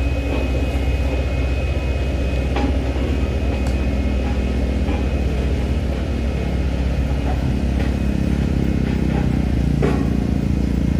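Heavy truck engine running, a steady low drone whose pitched note grows stronger about three seconds in and again near the end.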